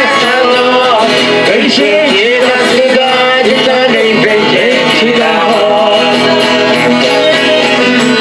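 Live folk music: an eight-bass button accordion (oito baixos) playing with a group singing along.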